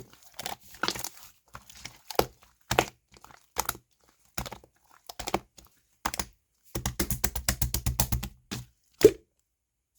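Slime being squeezed and pressed by hand, making a string of sharp crackling pops and clicks. A fast run of small pops comes about seven seconds in, and the sound stops a little after nine seconds.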